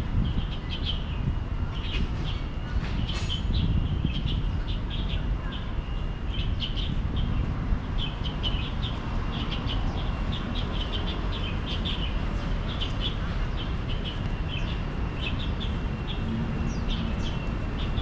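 Small birds chirping in the tree canopy, short high chirps repeated several times a second, over a steady low rumble.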